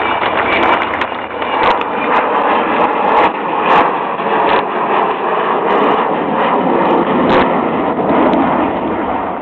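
Avro Vulcan bomber's four Rolls-Royce Olympus jet engines, a loud steady jet noise as it flies past at low level, with a few faint clicks over it.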